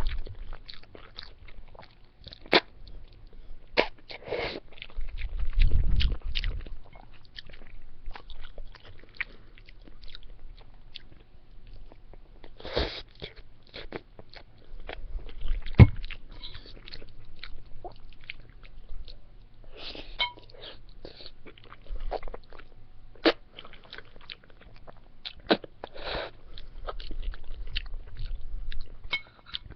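Close-miked eating: a person chewing and biting into a meal of spaghetti and salad, with many short crunches and wet mouth clicks at an uneven pace.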